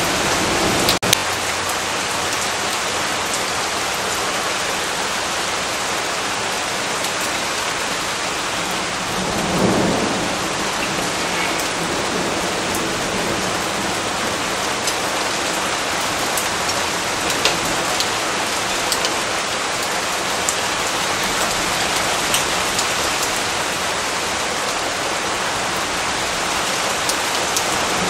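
Steady rain falling, with a brief rumble of thunder swelling about ten seconds in. There are scattered sharp drips and a single click about a second in.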